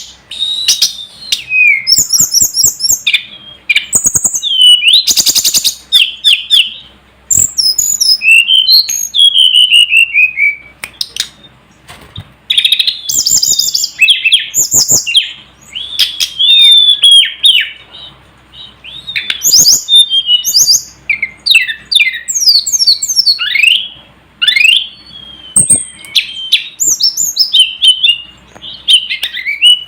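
Tledekan gunung (sulingan gunung) singing a continuous run of clear, high whistled phrases: sliding notes and quick trills, with short pauses between phrases.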